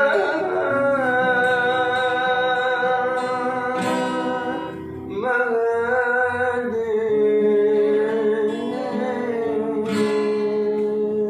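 A voice singing an Arabic sholawat in long, held, wavering notes over a plucked acoustic guitar, two drawn-out phrases with a short breath about five seconds in.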